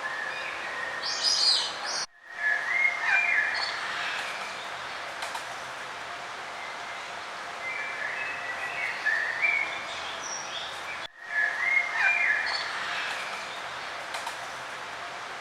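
Songbirds singing in short chirping phrases over a steady outdoor background hiss. The sound cuts out abruptly for a moment twice, about two seconds in and again near eleven seconds.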